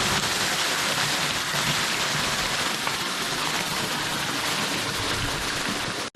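Small woodland waterfall pouring and splashing steadily into a creek pool, a constant rushing, pattering wash of water.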